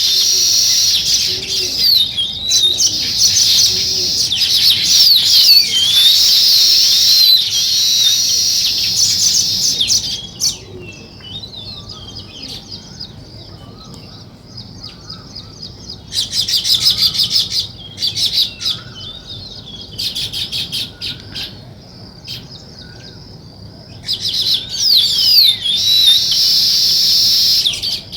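A flock of small songbirds chirping in a dense, high-pitched chorus. It thins to scattered chirps partway through, then swells again in a short loud flurry and a full chorus near the end.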